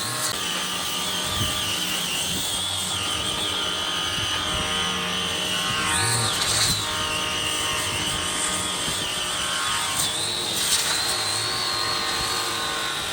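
Handheld electric power tool running steadily with a high motor whine. Its pitch wavers with the load and shifts briefly about six and ten seconds in.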